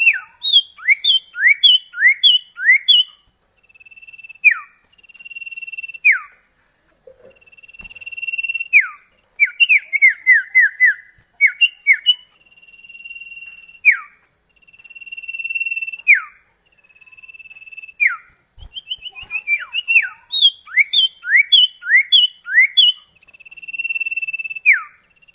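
Common iora (cipoh kacat) singing: long level whistles, each ending in a sharp downward slur, alternating with quick runs of short falling notes.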